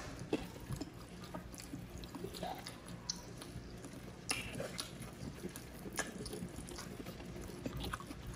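Close-miked eating sounds: wet chewing, lip-smacking and finger-licking while eating grilled chicken and rice by hand, heard as soft, scattered clicks and smacks, with a slightly sharper one about four seconds in and another about six seconds in.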